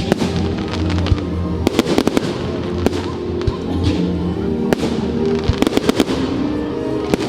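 Fireworks going off in a display: many sharp bangs and crackles, some in quick clusters, over music with steady held notes.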